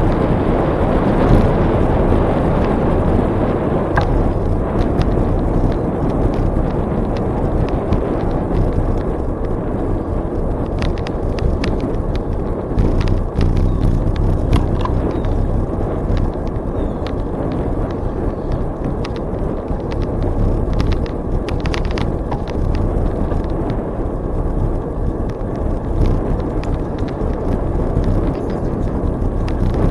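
Wind rushing over the microphone and tyre noise of a bicycle rolling along a trail, with scattered small clicks and ticks.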